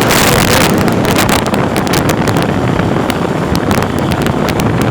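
Heavy wind buffeting the microphone over the steady running noise of a moving vehicle.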